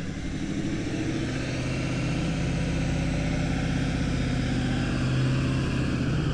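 A motor running with a steady low hum that drifts slightly in pitch, over a constant rush of wind and road noise.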